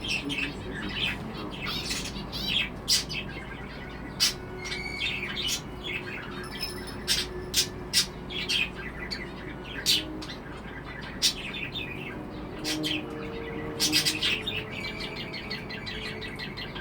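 Budgerigar chirping and warbling, with many short, sharp chirps coming every second or so between stretches of chatter.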